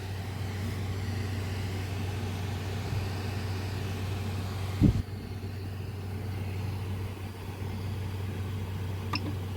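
Steady low mechanical hum of running machinery, with a single short knock about five seconds in.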